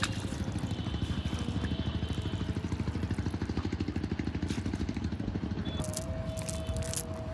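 A small engine running steadily, with a rapid, even low pulse.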